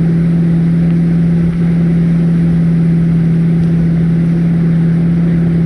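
A motor running steadily, a loud hum held at one unchanging pitch.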